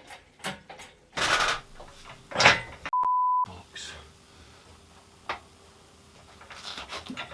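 A single steady high beep, about half a second long and cut cleanly into the soundtrack with dead silence around it, about three seconds in. It follows two short, loud bursts of noise and is followed by a sharp click.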